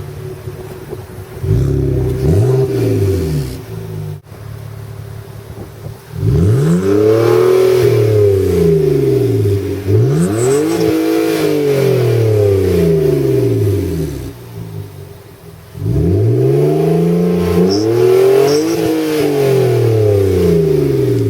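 BMW 325Ci's straight-six engine revved repeatedly through its muffler-deleted exhaust: a short blip, then four big revs, each climbing quickly and falling back slowly to idle.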